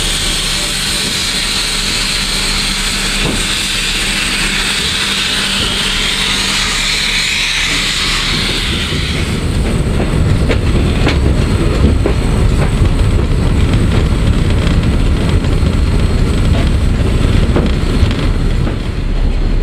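Footplate sound of the PKP Ol49 steam locomotive under way: a steady steam hiss for the first half, which fades out about nine seconds in, giving way to a louder rumble of the running locomotive with scattered clicks and knocks from the rails.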